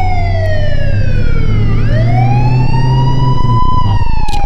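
Siren wailing: the tone falls slowly, sweeps back up about halfway through, and starts falling again near the end, over a steady low hum.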